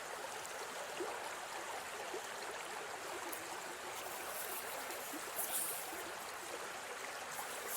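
Steady rush of flowing stream water, a continuous even sound with no breaks.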